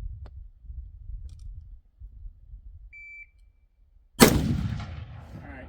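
Low wind rumble on the microphone and a short high beep about three seconds in, then a single AR rifle shot about four seconds in, its report trailing off over the next second.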